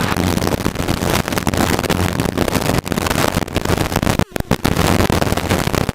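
Helicopter cabin noise: the rotor and engine running steadily with a low hum, and wind buffeting the microphone, cutting out briefly about four seconds in.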